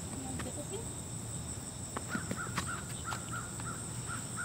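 Outdoor background of a steady, high-pitched insect drone. From about halfway, a bird calls in a quick, even series of short repeated notes.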